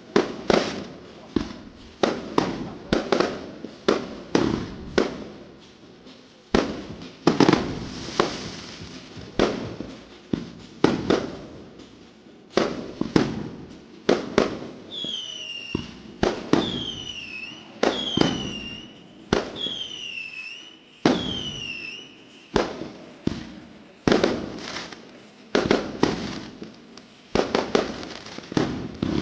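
Fireworks going off in quick succession, a sharp bang about every second, each with an echoing tail. In the middle stretch, five bangs are each joined by a short whistle that falls in pitch.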